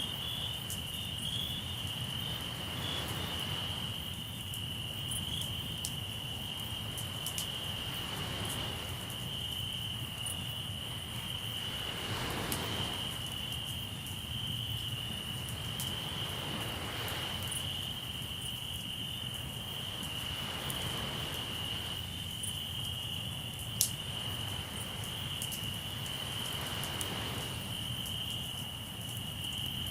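Crickets trilling steadily, with sea waves washing in every four or five seconds and a campfire crackling in small clicks, one sharper pop late on.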